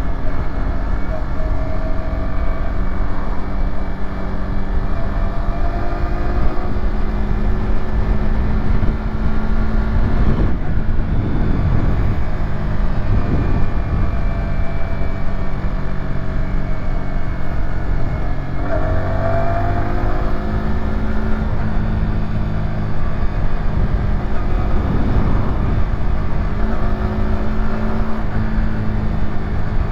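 Yamaha YZF-R125's single-cylinder four-stroke engine running under way on a downhill run. The pitch wavers with the throttle, drops about ten seconds in and rises again about nineteen seconds in.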